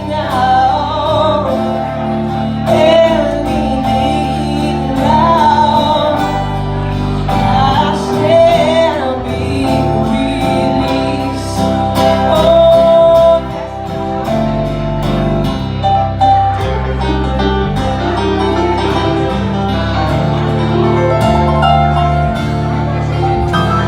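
A band playing a song, with singing over guitar, a steady bass line and a regular beat.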